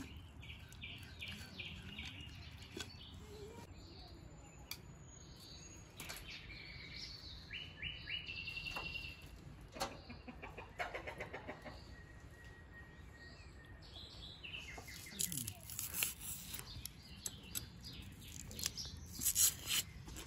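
Birds chirping and singing in short repeated notes, with a quick trill about eight seconds in. Near the end, a run of sharp clicks and knocks stands out above the birdsong.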